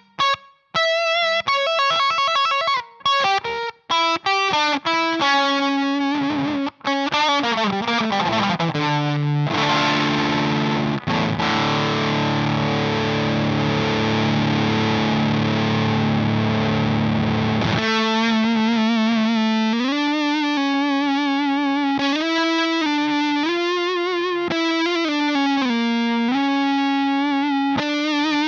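Electric guitar played through the Emmergy FX Flaming Cake Fuzz pedal, a gritty, spitty fuzz tone. Short clipped stabs with gaps between them give way to single notes, then a dense fuzzed chord held for about eight seconds, then a wavering single-note lead line with bends and vibrato.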